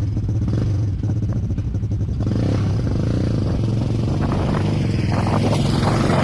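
Quad bike (ATV) engine running steadily, with some clattering in the second half.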